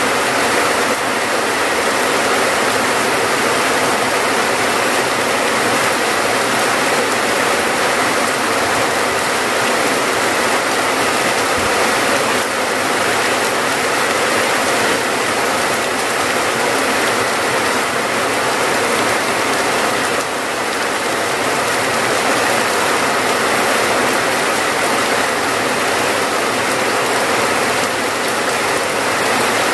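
Steady rain: a dense, even hiss of rainfall that holds without a break.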